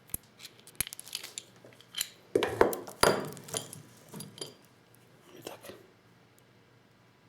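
Shotgun shells and Lee Loader reloading tools being handled: a run of sharp clicks, knocks and clinks of small hard objects, busiest and loudest about two to three seconds in, then thinning out.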